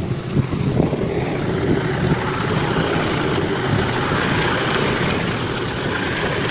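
Bulldozer's diesel engine running steadily, with a hiss building in the middle.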